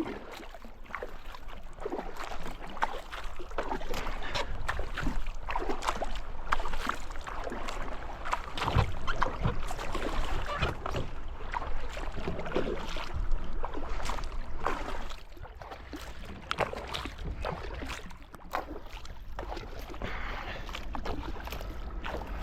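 Kayak paddling: the paddle blades dipping and pulling through the water, with irregular splashes and drips.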